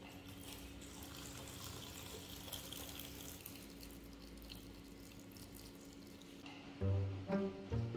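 Water running steadily from a tap into a sink, stopping about six and a half seconds in. Background music comes in near the end.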